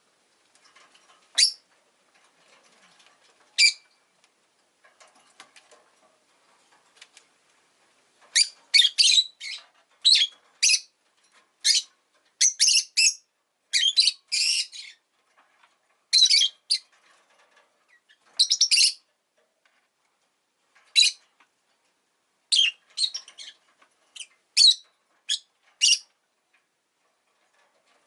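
Rosy-faced lovebird giving short, shrill chirps: two single calls in the first few seconds, then quick runs of chirps from about eight seconds in.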